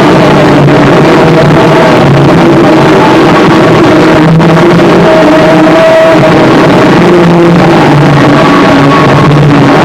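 Harsh noise music: a loud, unbroken wall of distorted noise with wavering, shifting pitched tones inside it.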